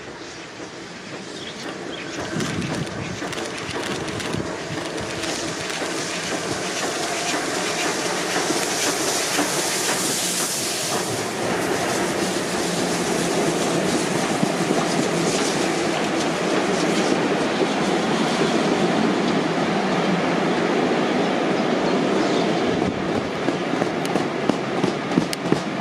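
A locomotive-hauled passenger train approaching and passing underneath. The noise builds over the first several seconds, with a burst of hiss about nine to eleven seconds in as the front of the train goes by. The carriages then roll past, their wheels clicking over the rail joints, with sharper clicks near the end.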